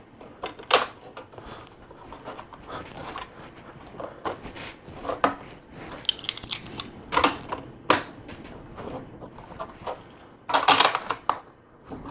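LEGO plates being fitted and pressed onto studs: scattered plastic clicks and rattles, with a louder burst of clattering about ten and a half seconds in.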